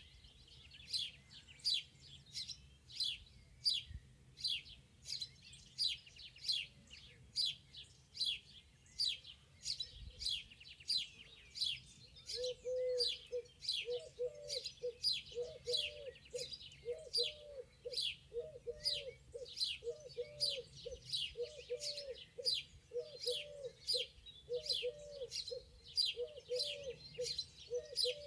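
Birdsong: one bird repeats a high, quick down-slurred chirp about twice a second, and about halfway through another bird starts a low, repeated cooing.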